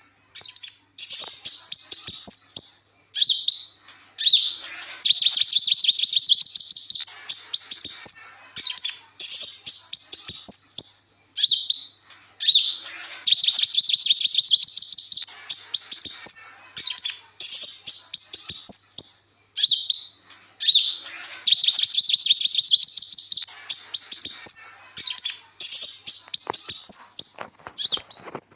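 A small sunbird ('kolibri ninja') singing: rapid high twittering phrases broken by short pauses, with a long, fast, even trill about every eight seconds.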